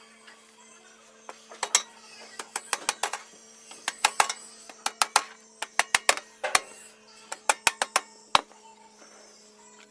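Sharp metallic taps and clinks coming in quick clusters of two to five, over a steady faint hum.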